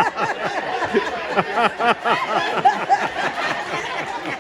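Several people laughing and chuckling over one another, mixed with indistinct overlapping voices.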